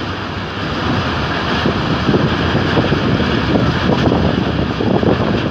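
Steady running rumble of a moving passenger train's coaches on the track, mixed with wind buffeting the microphone, heard from an open window of the train.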